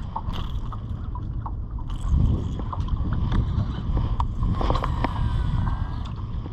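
Jon boat on the water: a steady low rumble of wind and water around the hull, with scattered light clicks and knocks.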